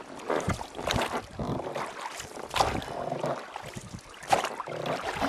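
Water splashing and knocking around a small boat on a river, in irregular sharp strokes over a steady wash, with some wind on the microphone.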